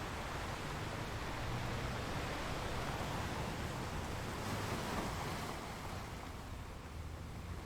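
Ocean surf: a steady rush of waves washing in, swelling about four to five seconds in and easing off near the end.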